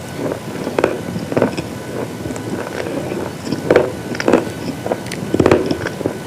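Repeated crisp crunches of brittle slate items being bitten and chewed, a sharp crack about every half second to a second over a steady hiss.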